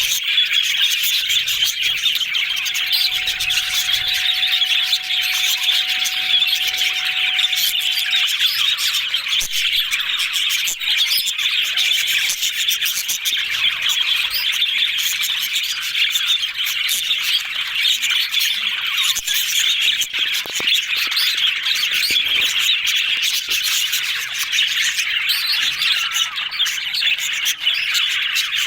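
Budgerigars chattering and chirping together in a dense, continuous twitter with occasional squawks.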